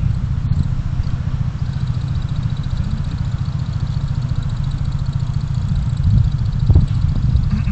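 Steady low rumble of a car's engine and tyres on the road, heard from inside the cabin, with a brief knock near the end.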